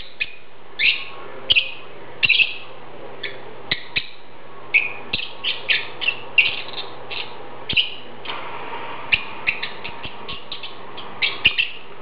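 A bird chirping: an irregular, rapid series of short, sharp calls, many sliding down in pitch, about two or three a second.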